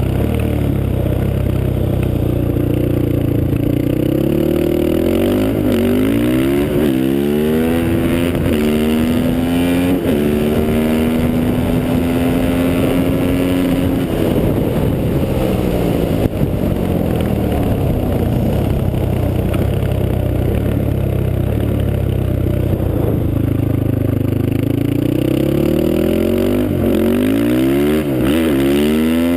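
Honda TRX450R quad's single-cylinder four-stroke engine through a Motoworks aftermarket exhaust, being ridden: the engine note climbs and drops repeatedly through throttle and gear changes, holds steady for a few seconds, then falls and climbs again near the end.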